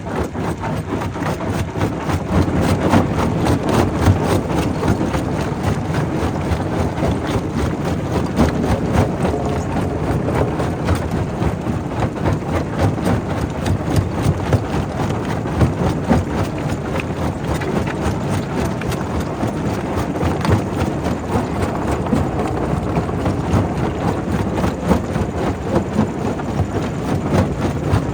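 Primary rock crusher running and crushing stone: a steady heavy machine rumble with many irregular knocks and cracks of rock breaking.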